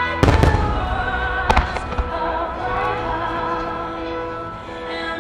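Booms of aerial firework shells bursting in a starmine of No. 8 (about 24 cm) shells: a loud cluster a quarter second in, another sharp boom about a second and a half in, and a smaller one just after. Choral music plays throughout.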